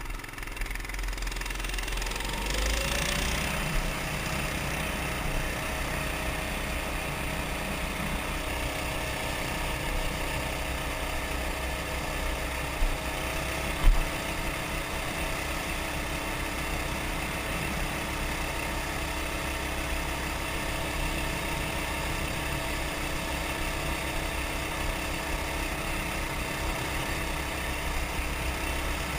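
Baja Warrior mini bike's 196cc 6.5 hp single-cylinder Honda-clone engine running at a steady idle after its pitch rises about two to three seconds in. Two sharp knocks come about halfway through.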